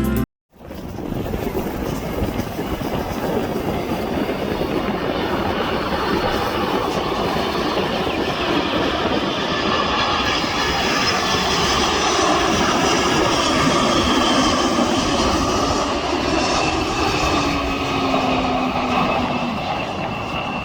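Boeing 747-400 freighter's jet engines going by: a loud roar that swells to a peak about two-thirds of the way through and then eases. A high whine over the roar falls in pitch as the plane passes.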